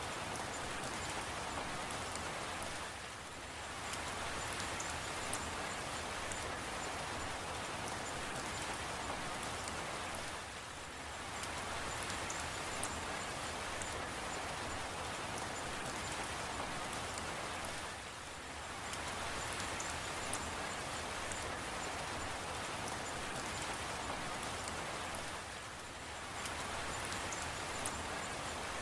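Steady rain falling, an even hiss with scattered drop ticks, that dips briefly in level about every seven and a half seconds.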